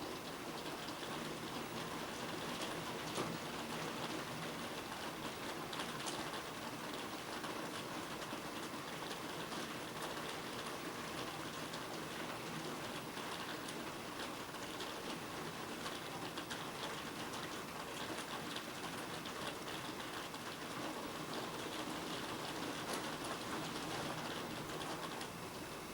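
Steady heavy rain falling, a continuous hiss with many individual drops pattering on surfaces.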